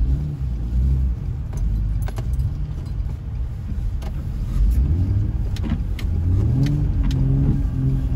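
Infiniti G35 coupe's 3.5-litre V6 heard from inside the cabin, driving off at low speed, its note climbing twice under throttle, about four and a half and six and a half seconds in. A few light clicks come through over the engine.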